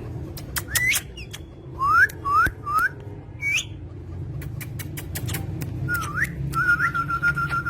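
Parrot whistling: a series of short, rising whistled notes, then a longer wavering whistle near the end, with scattered sharp clicks.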